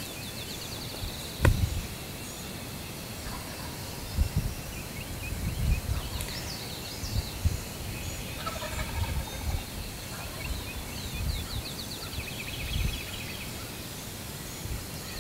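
Wild turkey gobbler gobbling a couple of times in the distance, mixed with songbirds trilling high and rapid. Low thumps of wind or handling on the microphone run underneath.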